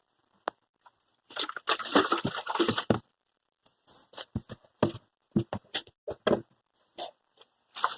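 Dry coop bedding rustling and crunching in irregular bursts: a dense stretch from about one to three seconds in, then a string of short scrapes.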